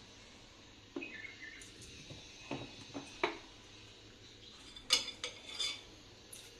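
A spoon clinking and knocking against dishes: a few scattered taps, the loudest about five seconds in.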